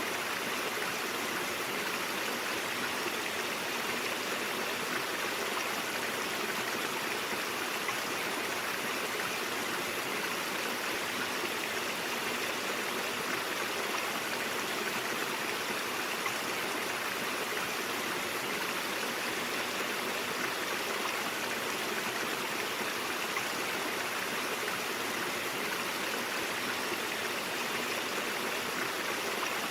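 Brook or mountain stream flowing over rocks: a steady, unbroken rush of water.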